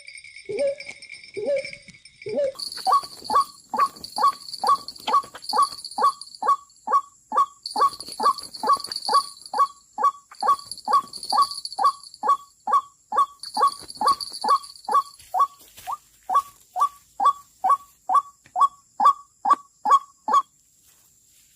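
White-breasted waterhen calling: a few lower notes, then a long, even run of sharp repeated notes, about two a second, that stops about a second before the end.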